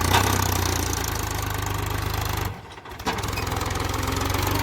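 Tractor diesel engine running steadily with a low, even chug. The sound drops out suddenly for about half a second midway, then picks up again.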